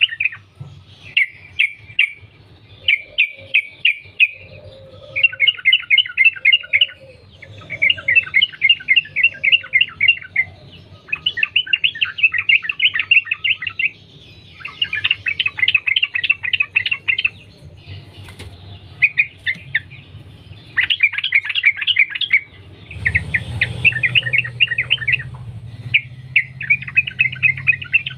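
Yellow-vented bulbul singing long phrases of rapid bubbling notes, one after another with brief pauses. A low rumble comes in about 23 seconds in.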